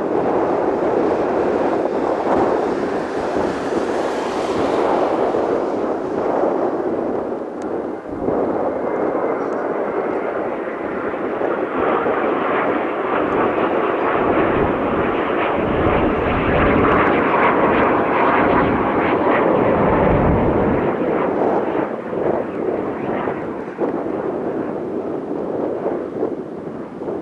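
Jet noise from Blue Impulse's Kawasaki T-4 twin-turbofan trainers flying past: a continuous roar that swells and deepens around the middle and eases off near the end.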